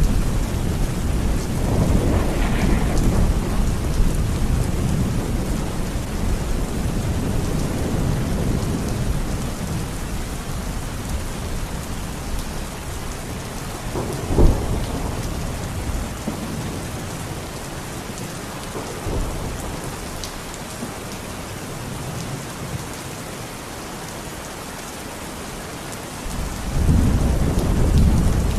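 Steady rain hiss under a thunderstorm. A long rumble of thunder dies away over the first several seconds, a sharp crack comes about halfway through, and a fresh rumble starts near the end.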